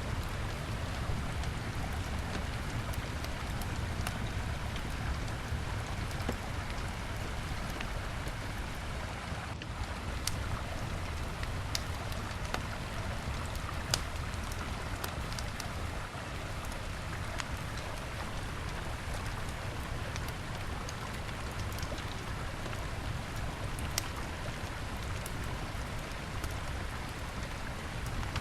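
Steady rushing of river water with a campfire crackling over it, giving a handful of sharp pops spread through the stretch.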